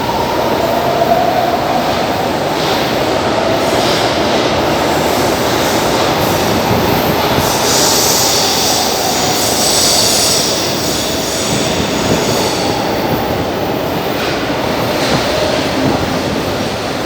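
Metro train running through an underground station with continuous rail noise. Its wheels squeal in a wavering tone over the first few seconds, and a high hiss rises for about three seconds in the middle.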